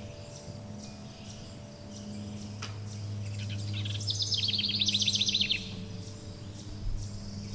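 Wild birds singing: scattered high chirps, then a fast trill of rapidly repeated descending notes that runs for about a second and a half near the middle, over a bed of steady low ringing tones.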